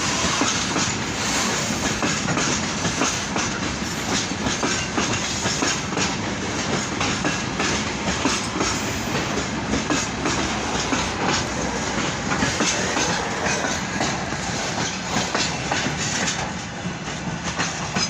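Freight train rolling past at close range, its wagon wheels clicking steadily over the rail joints. The sound eases slightly near the end.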